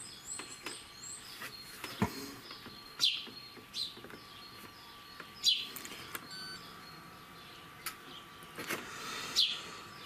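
Birds chirping, a handful of short downward-sweeping calls, with a couple of sharp clicks about two and eight seconds in.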